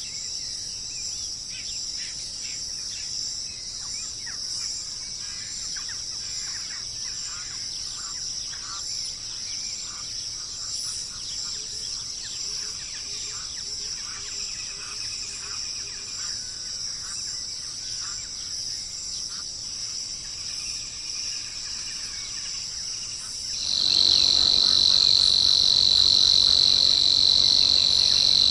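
Outdoor nature ambience: a steady high insect-like trill with short bird chirps scattered through it. About 24 s in, it cuts to a louder, steadier high-pitched trill.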